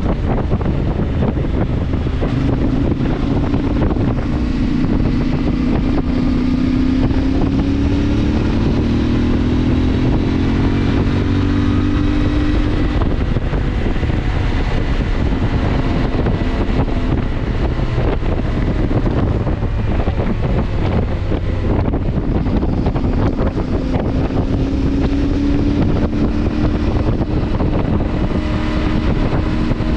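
CFMoto motorcycle engine running while riding, its note rising twice as it picks up speed, under heavy wind noise on the microphone.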